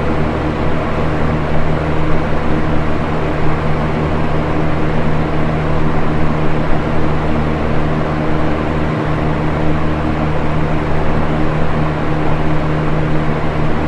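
Electric box fan running steadily: a constant rush of moving air over a low motor hum.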